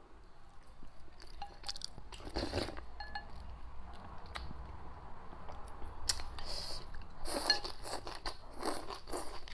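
Close-miked eating sounds: chewing and crunchy bites in short bursts, with a few light clinks of chopsticks on porcelain. Near the end come the crunches of a mouthful of stir-fried greens.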